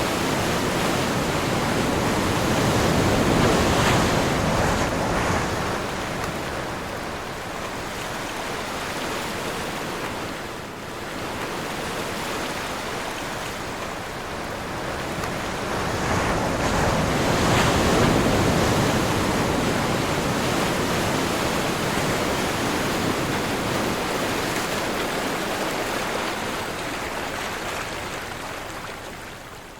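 Sea waves breaking and washing in on a windy day, with wind blowing. The rushing surf swells twice, a few seconds in and again about halfway through, between lower stretches of wash.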